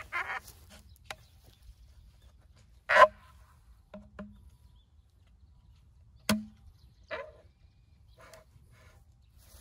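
Irregular sharp knocks and clacks, roughly one a second, the loudest about three seconds in and another strong one about six seconds in.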